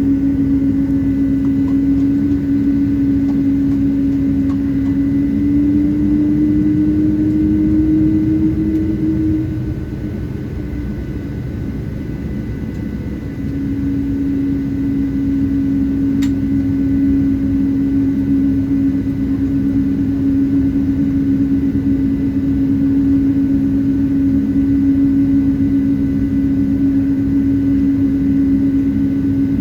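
Cabin noise inside a Boeing 777-200 taxiing after landing: a steady low rumble with a droning hum. The hum rises slightly in pitch about six seconds in, fades out with the rumble easing around ten seconds, and comes back about three seconds later.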